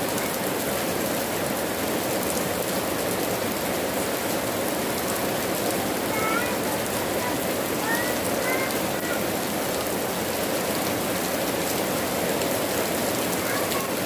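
Steady, even rainfall. A few short, faint high chirps come through it about six to nine seconds in and again near the end.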